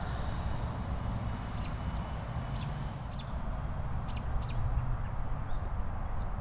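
Small birds chirping: short, high calls that slide downward, coming irregularly and in quick pairs, over a steady low background rumble.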